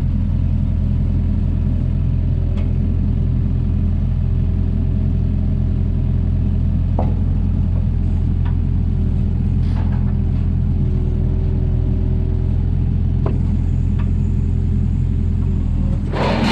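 Mini excavator's diesel engine running steadily under load, with a few faint knocks and clanks as the machine works at pulling posts set deep in the ground.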